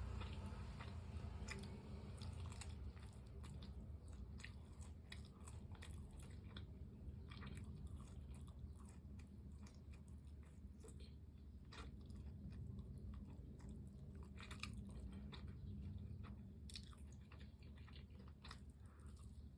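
A person chewing and biting into crispy fried chicken close to the microphone, with small crunches and crackles scattered irregularly throughout.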